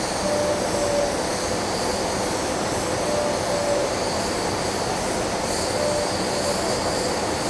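Ventec baghouse dust-collector plant running at start-up, giving a steady, loud industrial roar with a faint tone that comes and goes a few times.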